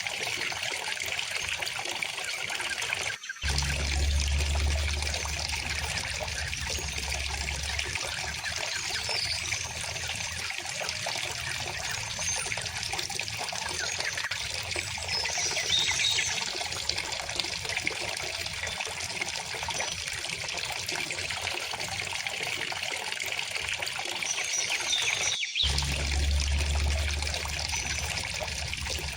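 Steady flowing river water, with a few faint bird chirps over it. The sound cuts out for an instant twice, each time coming back with a low rumble for a few seconds.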